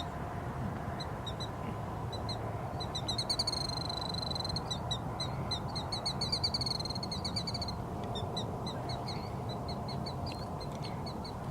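Wild birds calling in rapid runs of short, high, chattering notes, busiest in the first two-thirds and sparser near the end, over a steady low background rumble.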